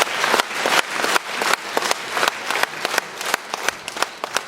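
Audience applauding, the dense clapping thinning out to scattered separate claps and fading toward the end.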